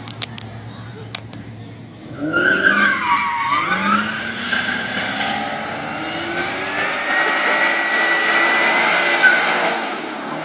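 Car engine revving hard and tyres squealing as the car drifts or does a burnout, starting suddenly about two seconds in after a few sharp clicks.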